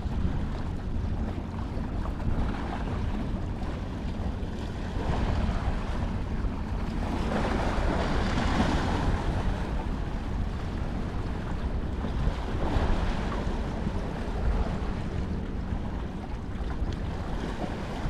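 Wind buffeting the microphone over the wash of harbour water, with a louder swell of wash about halfway through.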